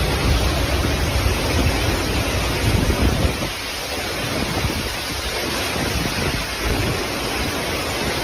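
Storm wind buffeting the microphone: a steady rushing noise with a gusty low rumble underneath, easing a little about three and a half seconds in.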